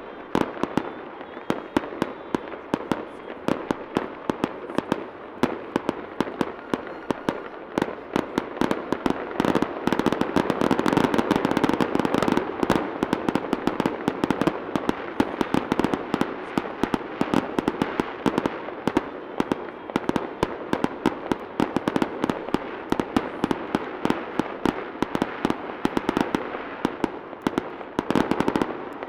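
Aerial fireworks display: shells bursting in rapid, continuous succession, a dense stream of bangs and crackles. The barrage thickens and gets louder about ten seconds in, then eases slightly in the second half.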